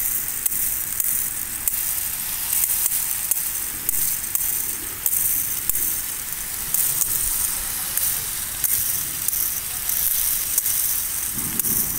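Burning riding lawnmower crackling with frequent sharp pops over a steady hiss, as water from a garden hose sizzles on the flames.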